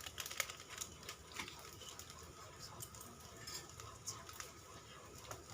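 Faint, scattered light clicks and rustles of seasoning packets being handled and emptied into the pan.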